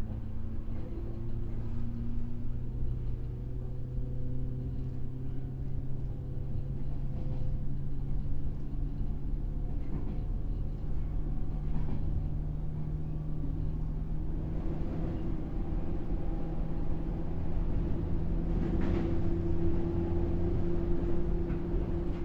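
Inside a JNR 103-series electric motor car running on the line: the MT55 traction motors hum under a steady rumble of wheels on rail. Several motor tones hold steady or drift slowly in pitch, and a higher tone joins about two-thirds of the way through.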